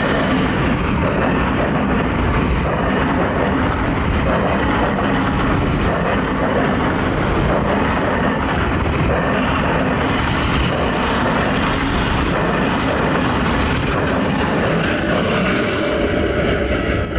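Train running steadily: the continuous rumble and rattle of a moving train, holding level throughout.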